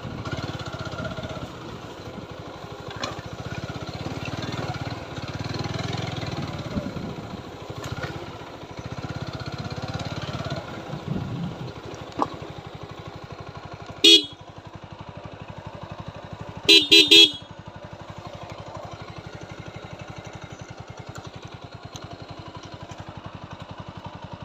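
TVS Apache 4V motorcycle's single-cylinder engine running. Its horn gives one short honk about halfway through, then three quick honks a few seconds later, and the engine sound settles and evens out after the honks.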